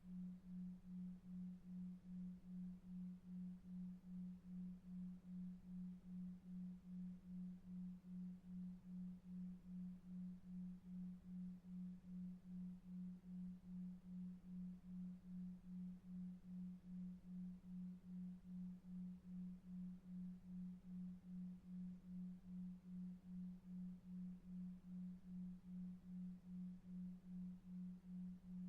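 A low, pure sleep tone pulsing on and off evenly about two and a half times a second, a 2.5 Hz delta-wave pulse, over faint brown noise.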